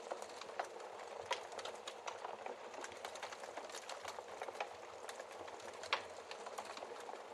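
Wood fire crackling in a fireplace: a steady hiss dotted with frequent small, sharp crackles, and two louder pops, about a second in and near six seconds.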